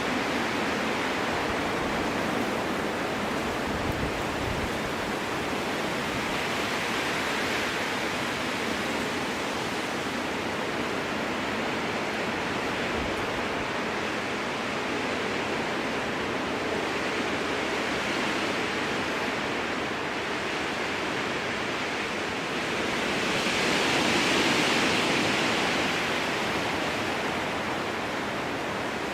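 Strong wind blowing through a spruce forest, a steady rushing with one gust swelling louder about 23 seconds in and then easing off.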